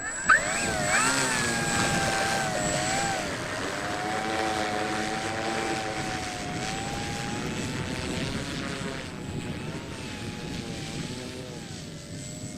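Electric motor and propeller of an RC model plane running after arming, the pitch wavering up and down as the throttle is moved. A steady high whine sounds alongside, and there is one sharp knock just after the start.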